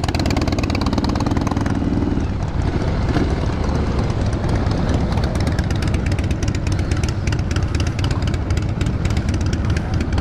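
Triumph SS 900 motorcycle engine running steadily, with a wavering higher tone over it for the first couple of seconds.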